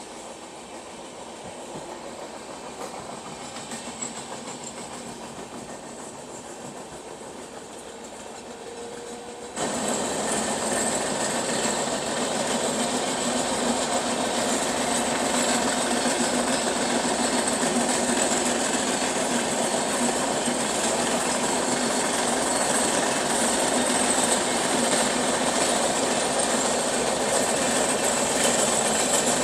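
Rolling noise of two trains running side by side on parallel tracks, steel wheels on rails with some clickety-clack, heard from aboard one of the moving trains. About ten seconds in the noise suddenly becomes much louder and then stays steady.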